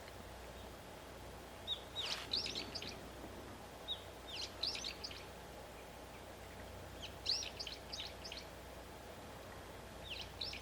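A small songbird calling in short clusters of quick, high chirps, a phrase every two to three seconds, over a steady low outdoor background rumble.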